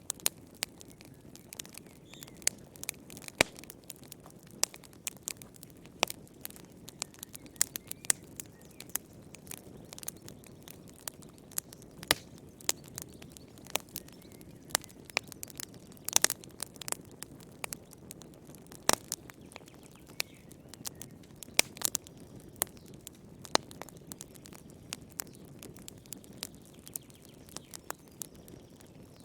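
Wood fire burning in a fireplace: irregular sharp crackles and pops, several a second, over a low steady rushing of the flames.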